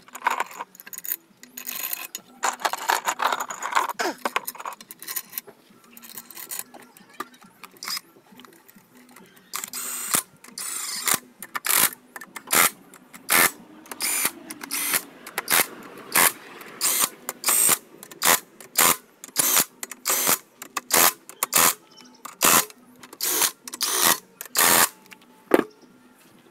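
Repeated short scraping strokes of a hand tool on engine parts, about one or two a second through the second half, with irregular clinks and rubbing before them.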